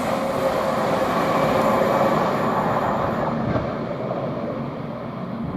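Class 700 electric multiple unit passing at speed, a loud rush of wheel and air noise with a steady whine in the first couple of seconds, fading away over the last two seconds as the train goes by.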